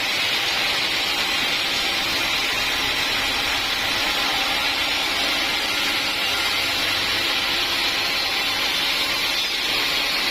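Sawmill machinery running steadily: a loud, even noise with most of its energy in a high hiss, unchanging throughout.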